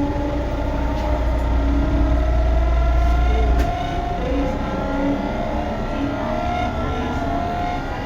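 Tobu 9050 series electric train running on the line, its traction motor and inverter whine climbing in pitch in steps over the steady rumble of the wheels on the rails.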